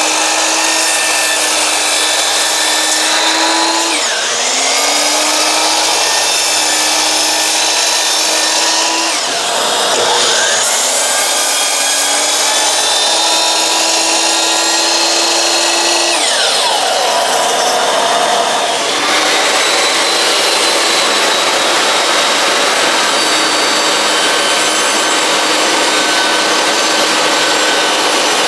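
Electric power saw cutting wooden boards, with a pitch drop at the end of each of three runs in the first half and a steadier run after that.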